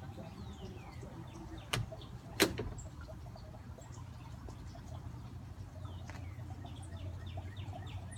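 Small songbirds, a titmouse among them, chirping and calling in short falling whistles over the steady sound of a garden fountain. Two sharp clicks about two seconds in, the second one the loudest.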